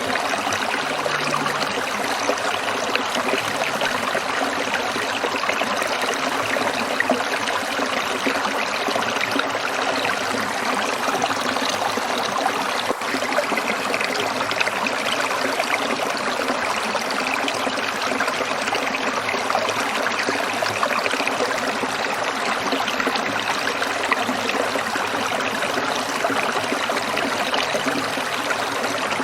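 Small stream trickling and splashing over stones, a steady, even rush of water.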